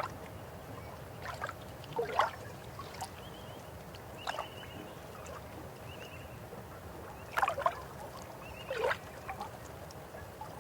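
River water flowing with a steady low rush, broken by irregular gurgles and splashes. The loudest come about two seconds in and again between seven and nine seconds. Short high chirps sound several times over the water.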